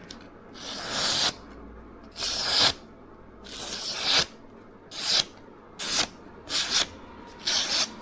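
Steel knife edge scraping across a coarse Naniwa Chosera 400 whetstone in seven sharpening strokes, which grow shorter and quicker toward the end.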